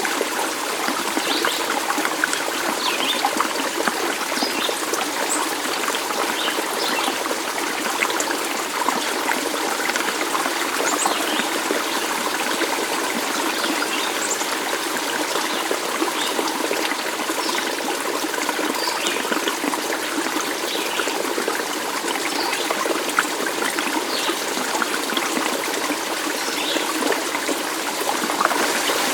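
Water in a stream flowing and trickling steadily, with short high notes dotted through it.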